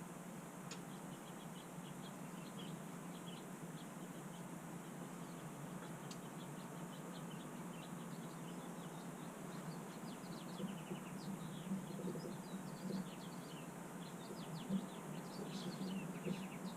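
Small birds chirping in short, high calls, scattered and growing busier in the second half, over a steady low hum.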